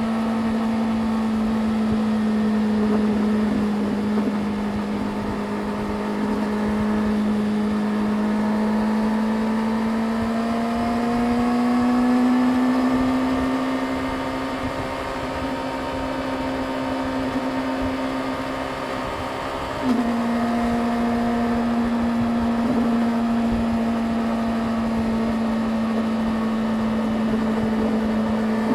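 Yamaha YZF-R6's 600 cc inline-four engine running at a steady pitch. The pitch rises a little around ten seconds in, then drops slightly with a sharp click about twenty seconds in.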